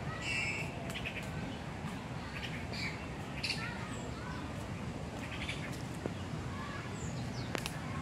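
Birds calling in short, scattered chirps and squawks, with a few quick gliding notes, over a steady low hum; one sharp click near the end.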